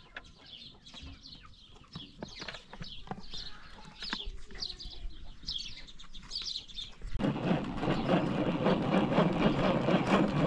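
Birds chirping over and over in short falling notes, with a few light clicks. About seven seconds in, a loud, dense rattling noise starts suddenly and keeps going.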